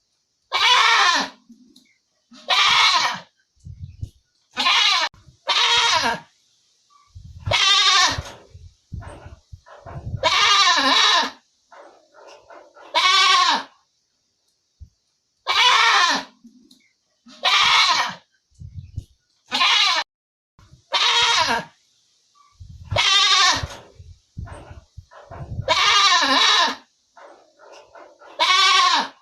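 Goats bleating: about fifteen separate bleats, each under a second long, with short quiet gaps between them.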